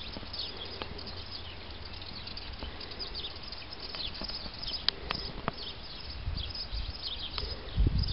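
Small birds chirping: many short, high calls in quick succession, over a low rumble that swells near the end, with a few sharp clicks about five seconds in.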